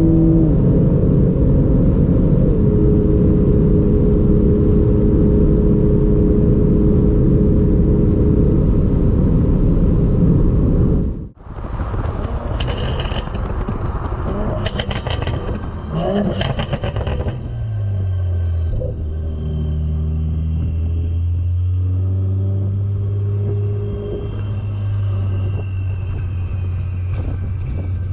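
Toyota GR Supra's 3.0-litre twin-turbo inline-six running flat out at about 263 km/h in sixth gear, heard from inside the cabin as a loud steady engine tone under heavy wind and road rush. After an abrupt cut about eleven seconds in, the exhaust is heard close at the tailpipe in Sport mode: a run of sharp crackles, then a steady low exhaust note whose pitch shifts a little.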